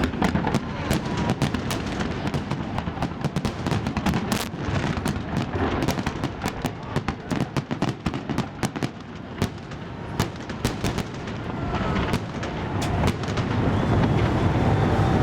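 Fireworks salute bursting in a dense run of sharp bangs and crackles, thinning out about eleven seconds in, after which a steady low rumble and voices take over.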